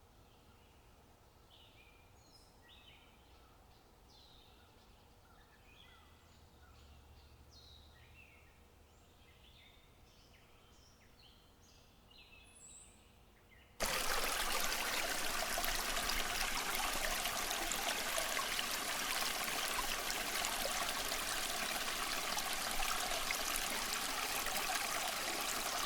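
Faint birds calling in short, scattered chirps, then an abrupt cut, about halfway through, to a loud, steady rush of flowing water.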